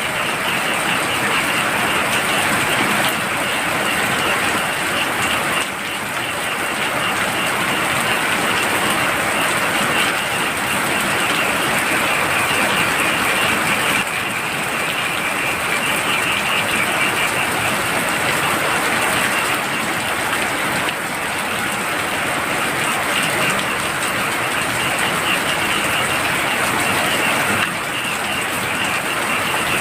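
Heavy rain falling steadily, with a continuous chorus of frogs calling in fast trills over it.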